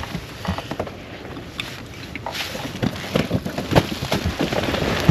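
A retriever coming in through shallow water to the hunters, with irregular splashing and rustling and wind on the microphone.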